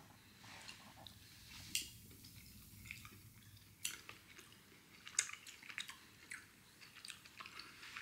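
Faint chewing of a gummy sour cherry candy, with scattered soft wet clicks from the mouth.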